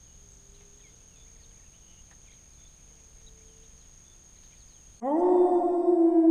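Quiet outdoor ambience with a steady high-pitched insect drone. About five seconds in, electronic music with sustained synthesizer chords cuts in abruptly and loudly.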